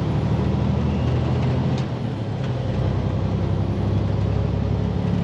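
Diesel engine of a semi-truck tractor running steadily while driving, heard from inside the cab as an even low drone.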